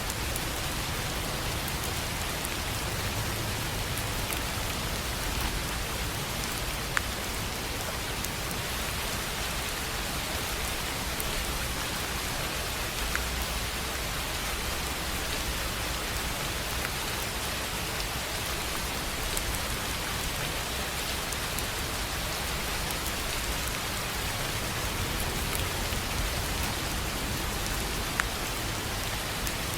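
Steady rain falling on a tin roof, with now and then a single sharper drop tick standing out, about 7 seconds in and again near the end.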